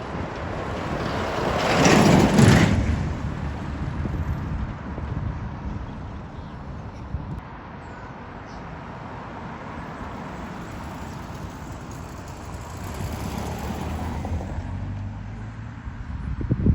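Vintage tractors driving past on a road: engine and tyre noise swelling loudly as one passes close about two seconds in, then another engine passing with a low hum later on.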